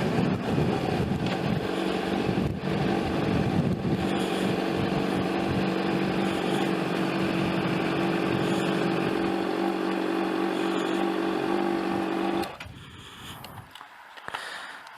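Sport motorcycle engine running at a steady pitch, then stopping abruptly about twelve seconds in.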